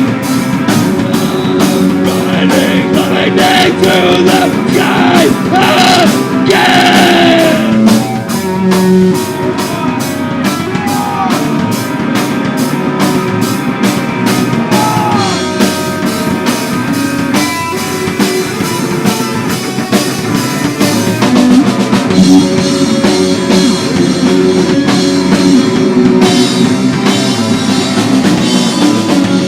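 Live rock band playing, with a drum kit keeping a fast, steady beat under guitar and singing.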